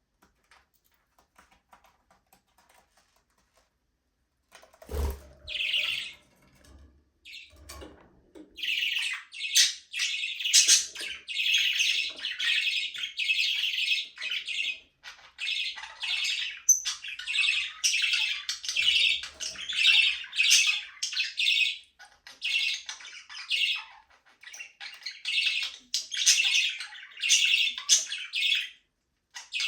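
Budgerigars chattering and warbling in a continuous stream of rapid high chirps. The chatter starts about eight seconds in, after a few near-silent seconds and a single low thump.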